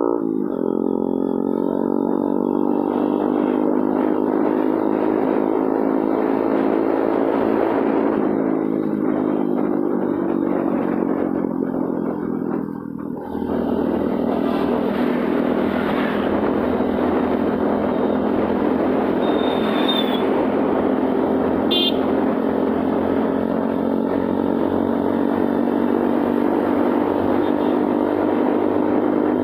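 Motorcycle engine running under way, its pitch rising and falling with speed. It drops off briefly about thirteen seconds in, then runs steadily.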